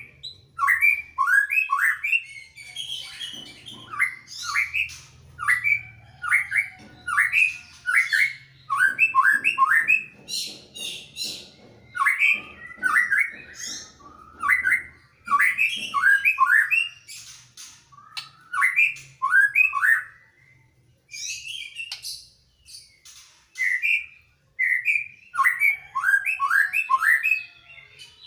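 Greater green leafbird and white-rumped shama singing back and forth in rapid bursts of short, sweeping whistled notes, with a couple of brief pauses in the last third.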